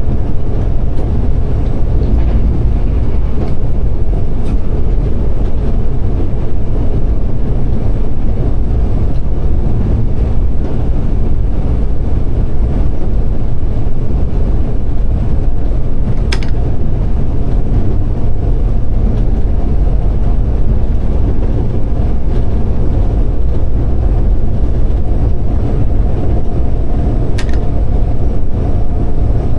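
Steady heavy rumble of a moving diesel train, heard from inside the locomotive cab. Two brief sharp clicks come about halfway through and again near the end.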